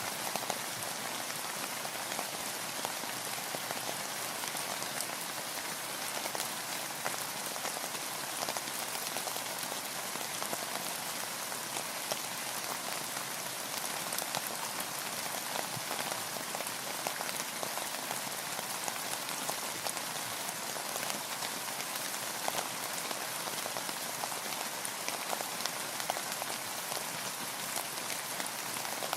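Steady, even rain, with many single drops ticking close by over the hiss of the downpour.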